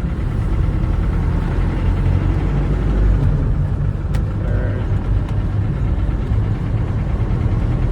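A 1997 Land Rover Defender pickup's engine running as it drives, heard from inside the cab, with a single short click about halfway through.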